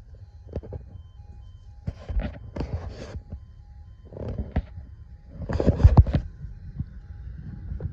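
A warning beeper sounding in an even pulse of short beeps, mixed with several loud bursts of rumbling noise and knocks, the loudest about six seconds in.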